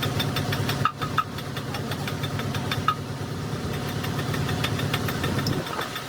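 Engine running at a steady idle, with a fast, regular light ticking over its hum.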